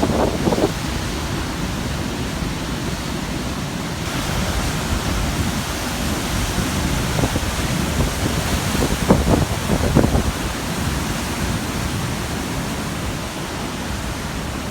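Large ocean waves crashing and churning on a rocky shore at high tide: a continuous wash of surf with stronger surges at the start and about nine to ten seconds in. Wind buffets the microphone with a low rumble.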